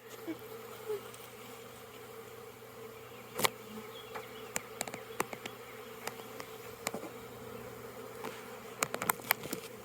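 A swarm of honeybees buzzing in a steady hum, with a few sharp clicks scattered through, the loudest about three and a half seconds in and several close together near the end.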